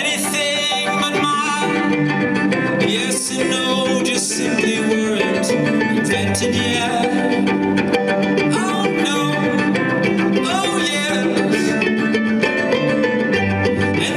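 Live band music, an instrumental passage: plucked strings with a lead melody that wavers in pitch.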